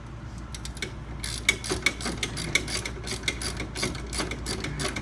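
Socket ratchet clicking in a quick, even run, starting about a second in, as a compressor mounting bolt is run in loosely by hand.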